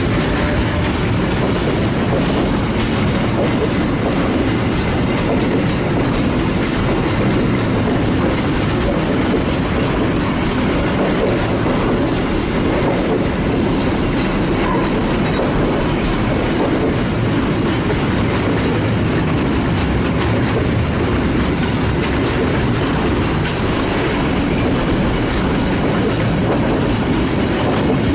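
Freight train of container wagons rolling past: a steady, loud rumble of steel wheels on the rails with a clatter over the rail joints.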